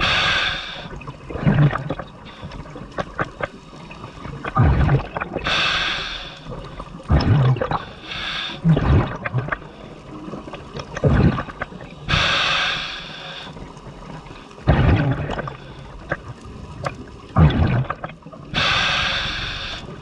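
Scuba diver breathing through a regulator underwater: four hissing inhales about six seconds apart, each followed by exhaled bubbles gurgling and rumbling.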